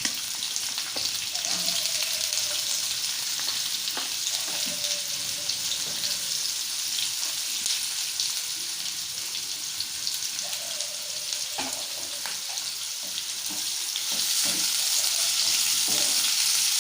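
Chopped onions frying in hot oil in a pan with the tempering and green chillies, a steady sizzle with a few faint knocks. The sizzle grows louder near the end.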